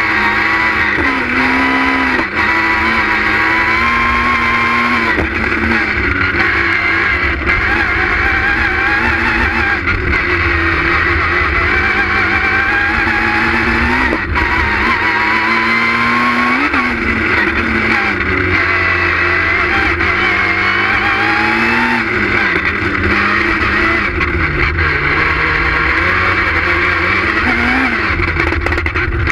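Citroën Saxo S1600 rally car's engine heard from inside the car at competition pace, its note rising and falling again and again as the throttle is pressed and lifted.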